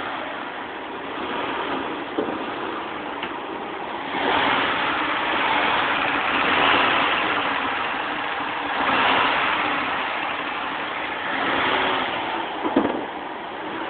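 1978 Ford Granada's 2.3-litre Cologne V6 engine running, rising and falling in level several times. Near the end there is a short sharp click.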